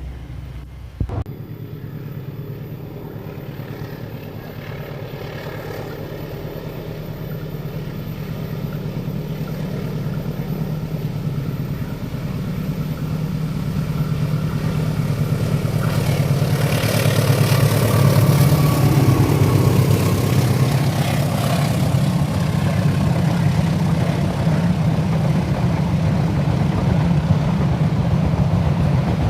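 Heavy diesel locomotive engine drone growing steadily louder as the train approaches, with a broad rush of noise swelling about two-thirds of the way through, then a steady heavy engine running. A single sharp click sounds about a second in.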